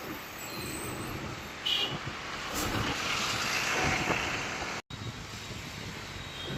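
Outdoor background noise of road traffic, with a brief total cut-out a little past the middle.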